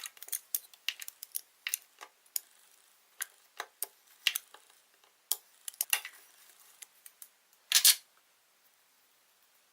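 Hands working Play-Doh with small plastic tools, making a string of irregular light clicks and taps. A louder scraping crackle comes about eight seconds in.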